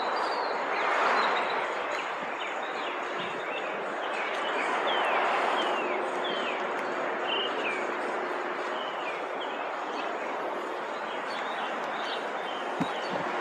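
Small birds chirping over and over in quick, falling notes, above a steady street noise that swells twice, like vehicles passing.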